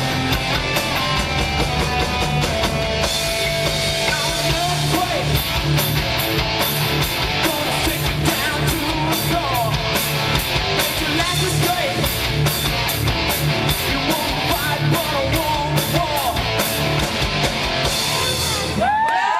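Amateur rock band playing live: guitar, bass and drums with a steady beat, and vocals. The song stops suddenly near the end, and a crowd starts cheering and whistling.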